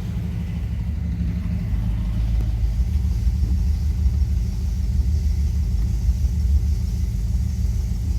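1973 Dodge D100 pickup's engine idling with a steady low rumble, its power steering pump running and sounding good.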